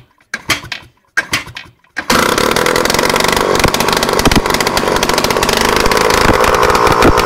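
Izh Planeta 4's single-cylinder two-stroke engine running with no exhaust system fitted: two short bursts of firing, then it catches about two seconds in and runs on steadily, loud and raw from the open exhaust port, its pitch creeping up slightly near the end.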